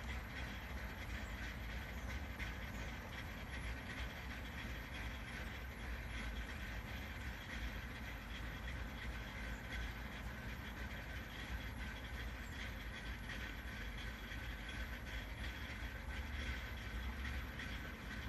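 2002 Ford Explorer engine idling roughly, a steady low running sound with small uneven swells in loudness.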